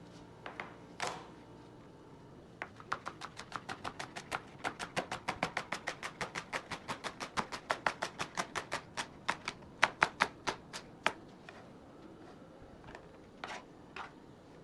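Kitchen knife slicing leek on a cutting board in quick, even strokes, about five a second, for some eight seconds, with a few single knocks before and after.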